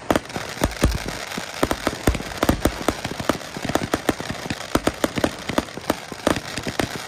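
Fireworks display: a dense, irregular run of crackling pops over a steady hiss, with deeper booms about one and two seconds in.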